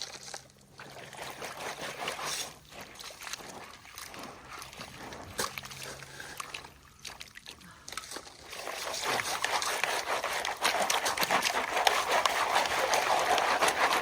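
Creek water sloshing and splashing with gritty scraping as a test pan of creek material is scooped and worked. The sloshing grows louder over the last five seconds.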